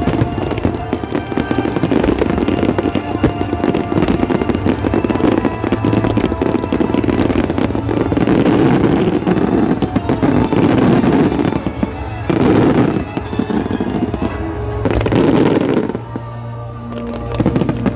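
Fireworks display: a dense, rapid crackling and popping of many shells and crackle stars going off together, over background music. The crackling dies down near the end, leaving mostly the music.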